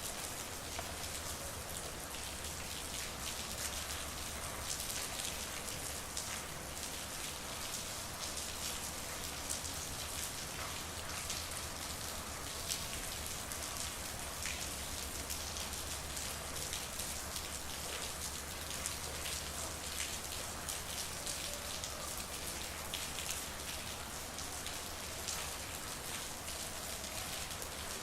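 Steady rain falling on a street, with many close drops pattering and ticking on hard surfaces over a constant hiss, and a faint low hum underneath.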